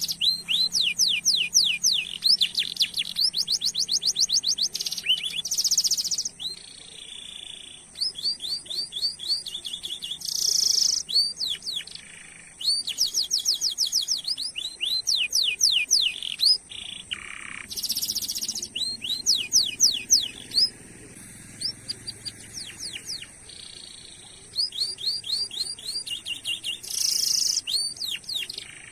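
Canary singing: fast, high trills of quick sweeping chirps repeated several times a second, in phrases broken by short pauses.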